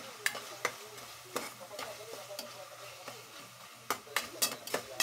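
Minced meat sizzling in a metal pot while a spatula stirs it, knocking and scraping on the pot with sharp clicks, several in quick succession near the end.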